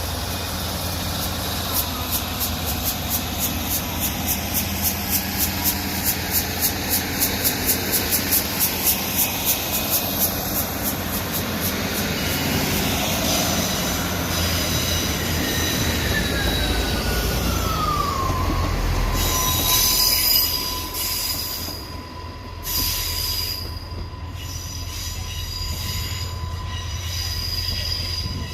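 Train moving slowly through the station over a steady low rumble, with a rapid high-pitched pulsing for several seconds, then a whine that falls in pitch and settles into a steady tone.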